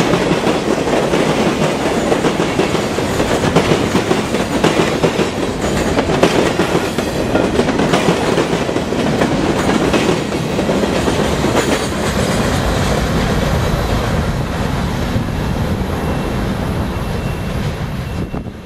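Freight cars of a long CSX mixed freight train rolling past close by: a steady rumble of steel wheels on rail with a continuous rattle of wheel clicks.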